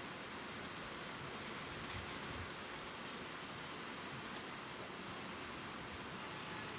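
Gentle, steady rain falling on leaves, a constant hiss with scattered light drips and ticks.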